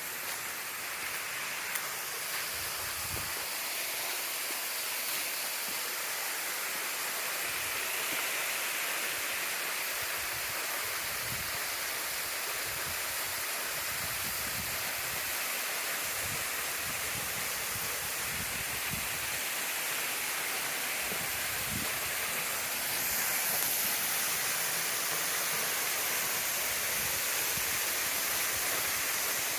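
Waterfall: a steady rush of falling water, with a few faint low thumps under it.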